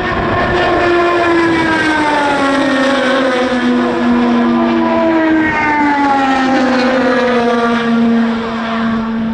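IndyCar race cars with 2.2-litre twin-turbocharged V6 engines passing at speed, each engine note dropping in pitch as it goes by; a second car passes about five seconds in.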